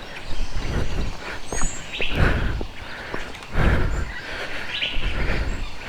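A bird gives a short, high chirp about one and a half seconds in, and a faint brief note near the end. Louder irregular rustling and thumps come and go underneath.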